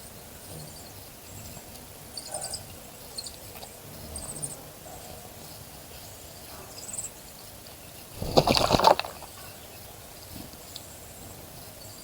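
A bird bathing in a bird bath, splashing and fluttering in the water for about a second near two-thirds of the way in. Faint short high chirps of birds are heard on and off.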